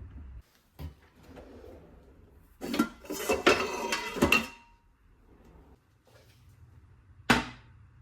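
Kitchen dishes and utensils clattering for about two seconds, with a short ring of metal or ceramic, then a single sharp knock near the end.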